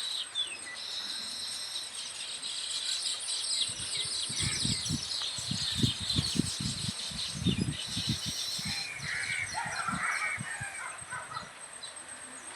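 Small birds chirping and twittering rapidly and continuously, with an insect buzz now and then. A series of low dull thuds comes in the middle.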